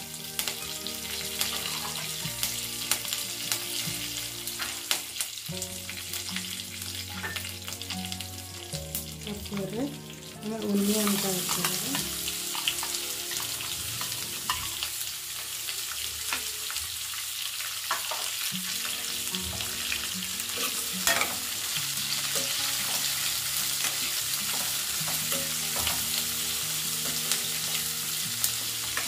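Whole spices and curry leaves crackling and spluttering in hot mustard oil in a kadai. About eleven seconds in, chopped onion goes into the oil and a loud, steady sizzle starts, with the clicks and scrapes of a metal spoon stirring the frying onion.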